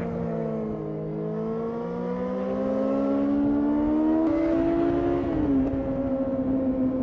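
A 2005 Yamaha R6's 600 cc inline-four engine accelerating hard. Its pitch climbs steadily until about four seconds in, then drops a little after five seconds and holds steady.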